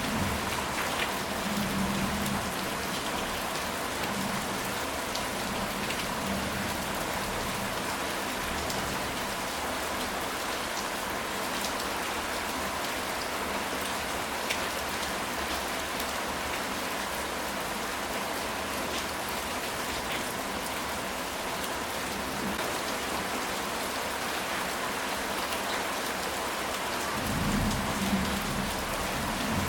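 Steady rain falling on a ceramic tile roof, a dense even hiss with scattered individual drop ticks. Low thunder rumbles in the distance near the start and again a few seconds before the end.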